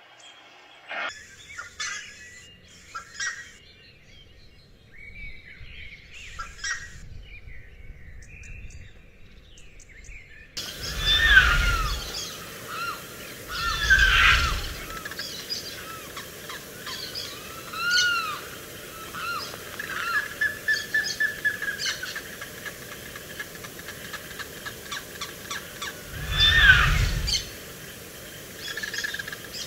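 Birds calling: many short, arched chirps repeat through the latter two-thirds, with a few louder calls standing out a third of the way in, around the middle and near the end. The first third is quieter, with only scattered faint sounds.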